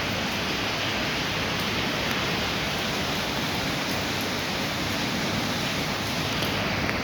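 Heavy thunderstorm rain falling, a steady even rushing hiss without a break.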